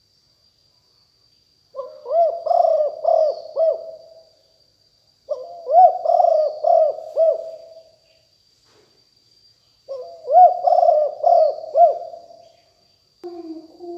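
Spotted dove cooing: three phrases of several arched coo notes, each phrase about two and a half seconds long, with short pauses between. Near the end a new phrase begins, with a second, lower-pitched coo under it.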